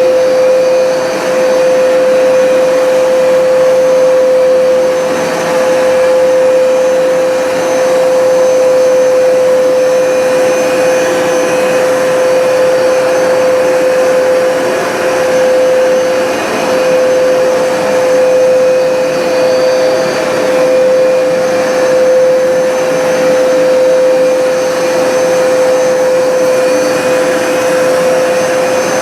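Hoover SmartWash automatic carpet cleaner running in its dry-only mode, its suction motor drawing water back out of the rug. A steady, loud drone with one strong pitch that holds through.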